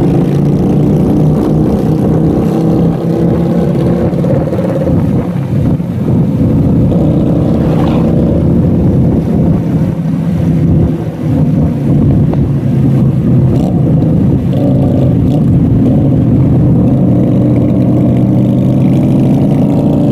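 Motorcycle engine running steadily while riding, its pitch holding nearly even throughout.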